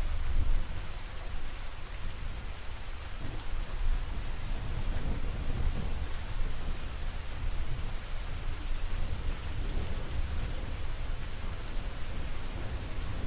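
Steady rain falling in an even hiss, with a deep low rumble underneath and a few faint drops ticking.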